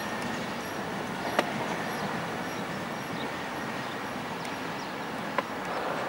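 Train running along the track: a steady rolling noise with two sharp clicks, one about a second and a half in and one near the end.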